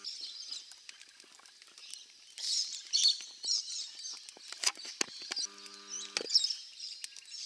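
Small birds chirping in clusters of high calls, with scattered sharp clicks and rustles. A brief low hum comes in about five and a half seconds in and lasts under a second.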